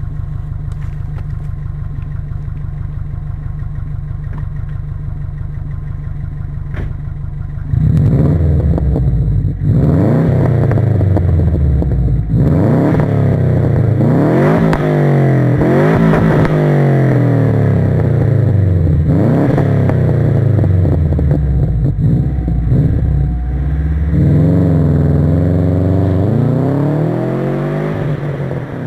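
Subaru Forester S-Turbo's EJ205 2.0-litre turbocharged flat-four idling steadily, then, about eight seconds in, revved up and down repeatedly in quick blips, with a longer climb in revs near the end.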